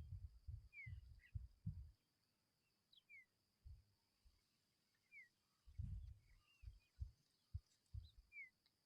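Tawny pipit giving a few short, faint, downward-sliding chirps, two to three seconds apart, over a steady faint high hum and intermittent low rumbles.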